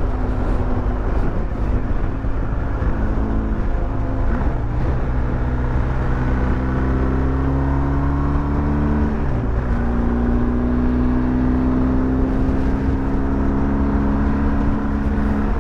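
Motorcycle engine running under way, its pitch climbing slowly as it accelerates, dipping briefly about nine seconds in at a gear change, then climbing again.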